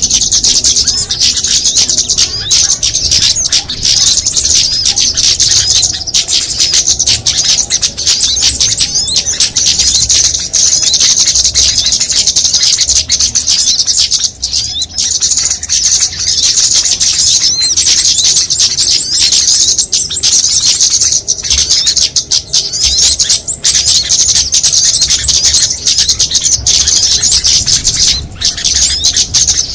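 Dense, unbroken chorus of rapid, high-pitched chirping and twittering from many small songbirds layered together: a mixed-species lure recording used to call small birds in for trapping.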